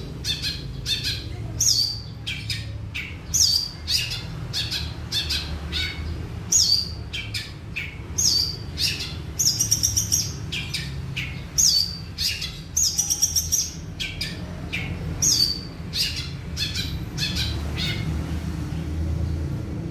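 Long-tailed shrike singing vigorously: rapid runs of sharp high chirps and short trills, in clusters every second or two, thinning out near the end. A low steady hum runs underneath.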